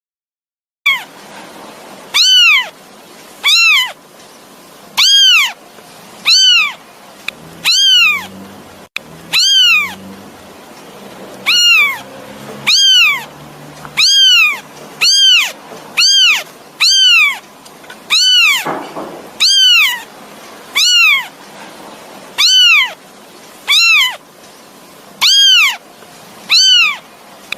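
Kitten meowing over and over, about twenty high-pitched calls a second or so apart, each rising then falling in pitch: a kitten calling for its mother.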